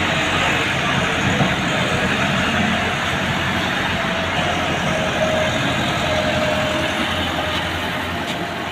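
Massey Ferguson tractor's diesel engine running steadily while hauling a loaded trailer on the road, mixed with road noise.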